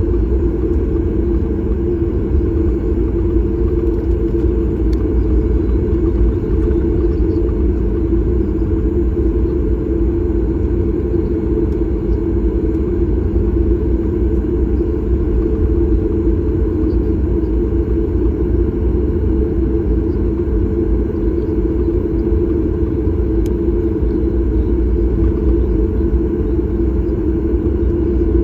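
Steady rumble and hum of a Boeing 737 MAX 8's engines and airflow, heard from inside the passenger cabin.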